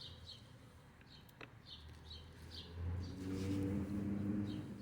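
Small birds chirping in short repeated calls, with a low drawn-out cooing in the second half that is the loudest sound.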